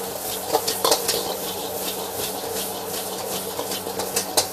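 Fried rice frying in a wok: a steady sizzle with a few light scrapes and taps of the spatula, the strongest about a second in.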